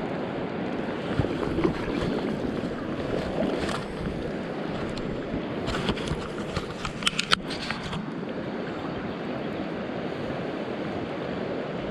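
Steady rushing of river water, with a few short sharp knocks a little past the middle.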